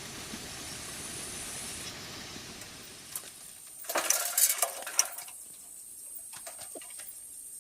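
Dishes and utensils clinking and clattering in a few quick bursts, about three to five seconds in, after a stretch of steady hiss.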